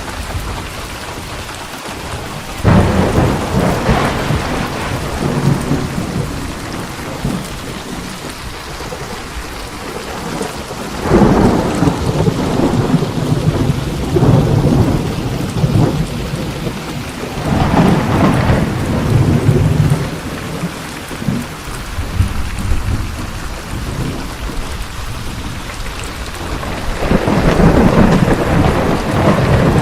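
Steady rain falling, with thunder rolling in four times: a sudden crack about three seconds in, then long rumbles about eleven seconds in, around eighteen seconds in and near the end.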